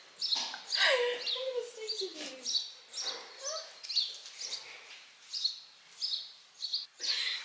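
Small birds chirping repeatedly in short, high chirps, with a few louder rustling swishes in between.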